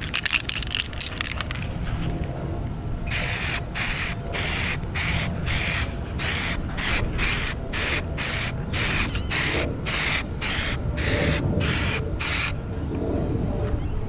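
SprayMax 2K clear coat aerosol can spraying a light mist coat in short hissing bursts, about two a second, starting about three seconds in and stopping near the end.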